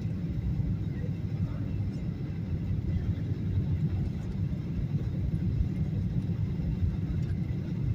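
Airliner cabin noise during the descent: a steady low rumble of engines and airflow.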